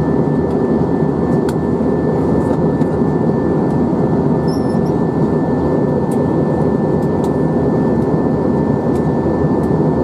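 Airbus A321 cabin noise in cruise: a steady roar of jet engines and airflow, with a thin steady high whine running through it.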